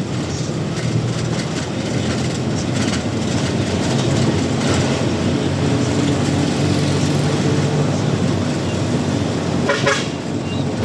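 Truck engine running steadily under way, with tyre and road noise.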